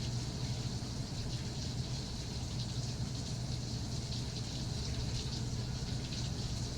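Steady rain: an even hiss with faint scattered drop patter, over a steady low rumble.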